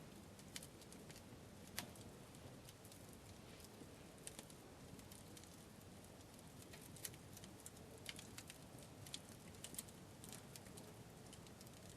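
Faint campfire crackle: wood in the fire popping with irregular sharp clicks over a low hiss, one louder pop about two seconds in.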